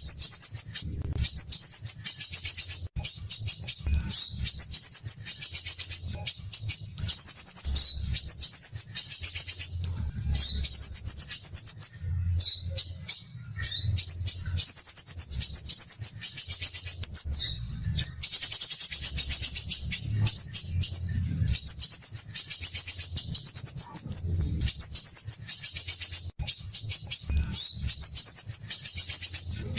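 Crimson sunbird singing: dense, harsh, rapid trilled phrases of one to two seconds each, high-pitched, following one another with only brief gaps.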